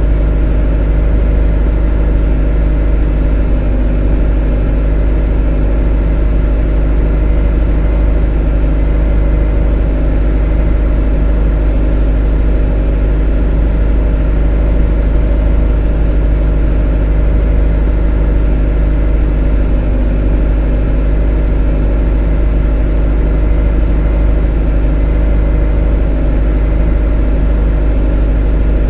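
A motor running steadily at constant speed: an unchanging hum with a strong deep rumble underneath.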